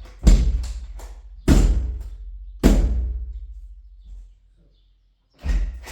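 Four heavy blows struck on a wooden door being repaired, each followed by a long, low, ringing decay; three come about a second apart, and the fourth follows after a pause.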